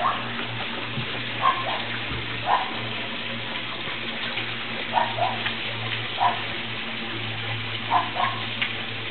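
Steady rain hiss with short, high puppy cries every second or so, some coming in quick pairs, from Norrbottenspets puppies out in the rain. A low steady hum runs underneath.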